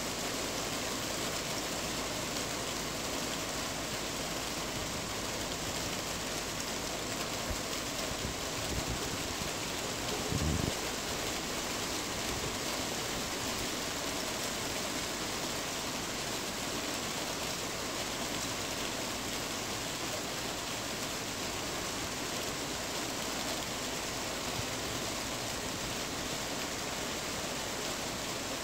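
Steady rain drumming on a tin roof, an even hiss without a break. A brief low thump sounds about ten seconds in.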